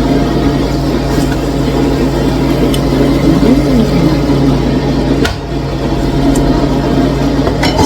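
Steady low mechanical hum, with a sharp click about five seconds in and another near the end.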